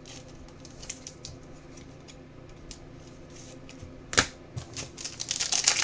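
Sports trading cards and their packaging being handled on a table: scattered light clicks and taps, one sharp click about four seconds in, then a quick crackling rustle near the end as the next box is opened.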